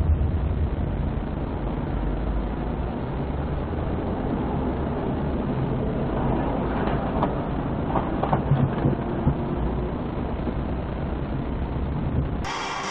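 Steady low rumble of a running vehicle, with a few short knocks or rattles near the middle.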